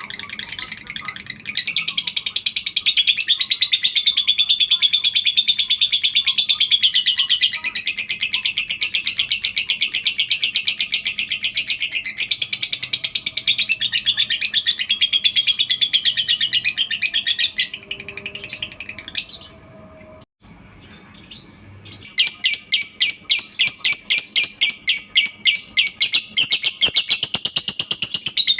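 Lovebird 'ngekek': a long, very fast chattering trill of shrill high notes, breaking off for about two seconds and then starting again as rapid pulsed chatter.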